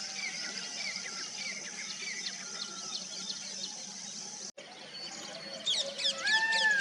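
Wild birds chirping: repeated short falling chirps over a steady high-pitched buzz. After a brief dropout about two-thirds of the way through, louder, sharper sweeping calls and one clear whistled note take over.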